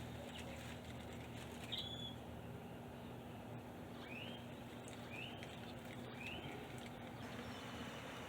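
A bird calling outdoors: one short high chirp, then three short rising chirps about a second apart, over a faint steady low hum.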